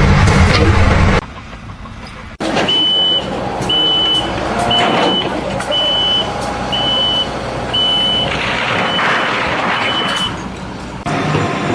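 A heavy vehicle's reversing alarm beeping steadily, about once a second, eight times, over engine and site noise. It is preceded by a loud low engine rumble that cuts off about a second in.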